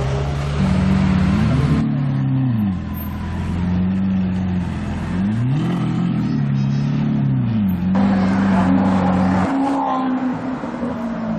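Supercar engine idling and being blipped several times, each rev rising quickly and falling back to idle.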